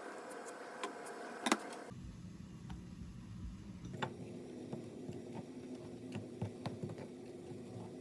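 A steady hum with scattered light clicks and taps, the loudest about one and a half seconds in. The hum changes abruptly about two seconds in and again about four seconds in.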